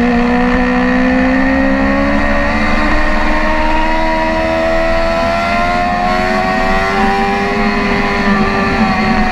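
BMW S1000RR sportbike's inline-four engine running hard under throttle, heard onboard. Its pitch climbs steadily for several seconds as the bike accelerates, then eases slightly near the end.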